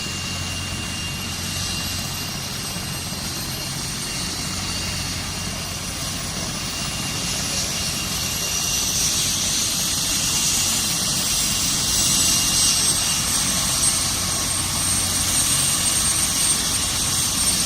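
Emergency air ambulance helicopter running, its turbine whine and rotor noise steady, with a high whine slowly rising in pitch and the overall sound growing louder from about halfway.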